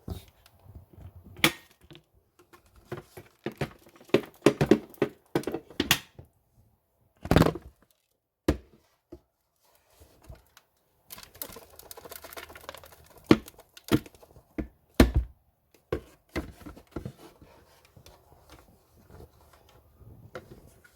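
Handling noises: scattered knocks and clicks at an uneven pace, with rustling between them and a few quiet pauses, the loudest knocks about seven, thirteen and fifteen seconds in.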